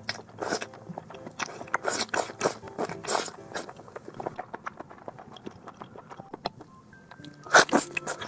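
Close-miked chewing and biting of food, with wet crunching bites coming in quick runs. A quieter stretch comes just past the middle, and the loudest bites fall near the end.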